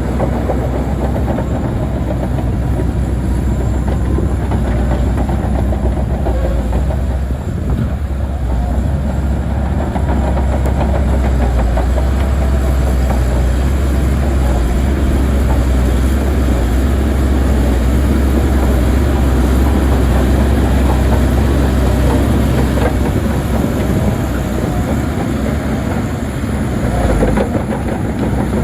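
Heavy earth-moving machinery at work: a large diesel engine running steadily under load with a strong low rumble and mechanical clatter.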